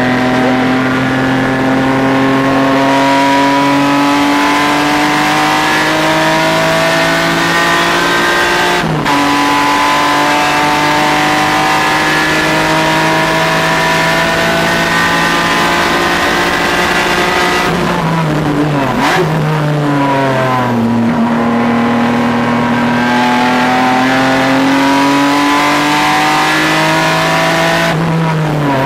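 Race car engine lapping a track, pulling hard with its pitch climbing steadily and dropping sharply at an upshift about nine seconds in. Around eighteen to twenty-one seconds in, the revs fall in quick steps as it downshifts for a corner, then it accelerates again and shifts up near the end.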